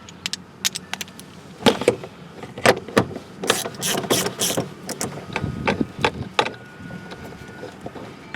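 Metal hand tools clinking and clattering: an irregular run of sharp clicks and knocks, busiest in the middle, as a socket extension is handled and fitted.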